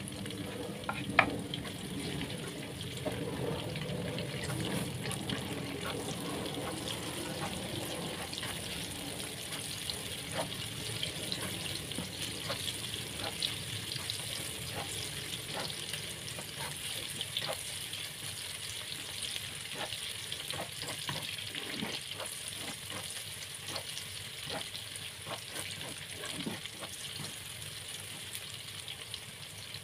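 Sliced onion and garlic sizzling in hot oil in a granite-coated wok, stirred with a spatula that scrapes and ticks against the pan. A sharp knock about a second in.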